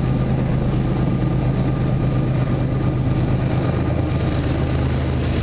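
Diesel engine of a CN freight locomotive, a steady low drone, as the train rolls closer on the rails.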